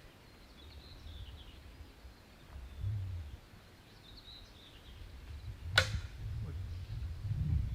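A newly made wooden bow of about 50 pounds draw being shot. Its string gives one sharp snap on release nearly six seconds in, over a low rumble that grows towards the end.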